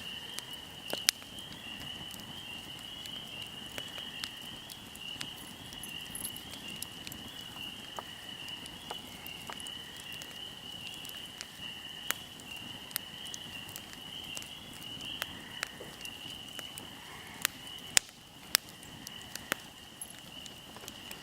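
Fire crackling with irregular sharp pops, a few louder snaps standing out, over a steady high-pitched insect trill.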